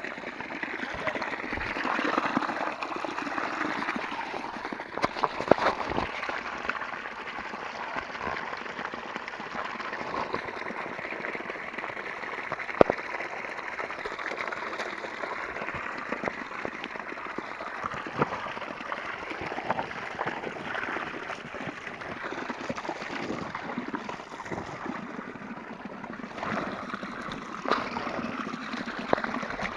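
Stream water running and gurgling steadily, with a few sharp knocks along the way.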